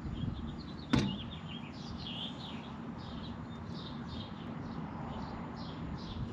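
Small birds chirping repeatedly over a low steady background hum, with a single sharp click about a second in.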